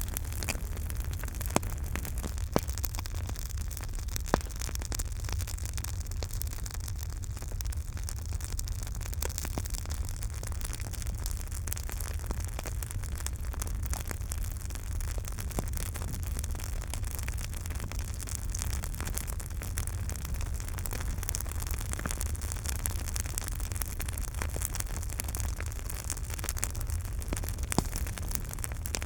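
Campfire burning: a steady low rumble and hiss of flames with soft crackling, broken by scattered sharp pops of burning wood, several in the first few seconds and one near the end.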